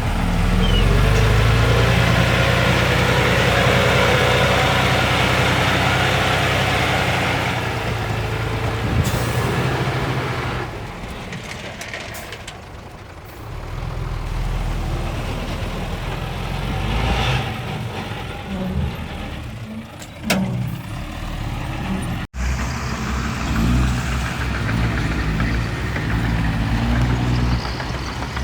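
Heavy diesel engines of dump trucks and a small bulldozer working. For the first several seconds an engine runs hard with a loud rushing noise, then fades about twelve seconds in. Engine sound picks up again, with the sound cutting out for an instant a little after twenty-two seconds.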